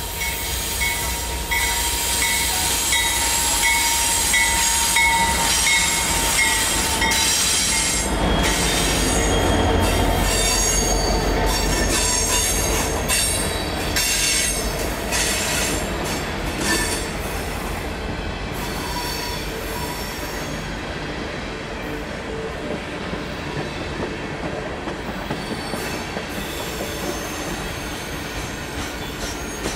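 Freight train passing close by: a BNSF diesel locomotive goes by first with its bell ringing about twice a second, its engine rumble loudest around ten seconds in. Then a long string of hopper cars rolls past, the wheels squealing and clattering over the rail joints.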